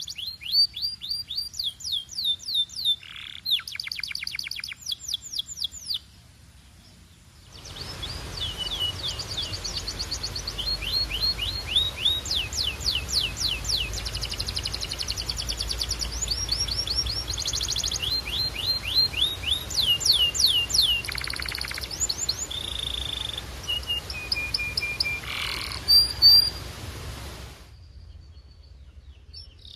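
Belgian canary singing: fast trills and rolls of rapidly repeated notes, some steady and some falling in pitch. The song breaks off briefly about six seconds in, then resumes over a steady hiss until shortly before the end.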